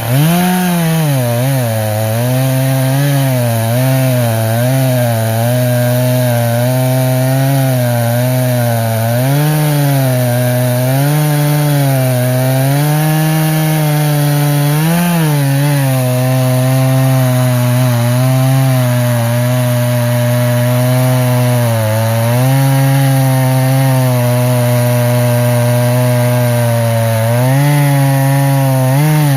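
Echo CS-590 two-stroke chainsaw with a freshly sharpened 20-inch chain cutting through a log at full throttle, its engine note sagging and picking back up again and again as the chain loads in the wood. The saw is still fairly new, about five tanks into breaking in.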